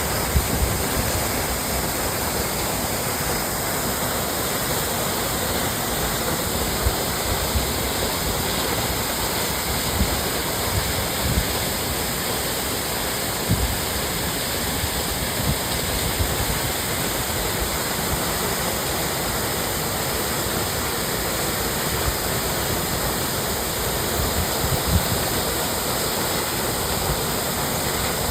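Beauchamp Falls, a waterfall, giving a steady rush of falling water, with brief low bumps now and then.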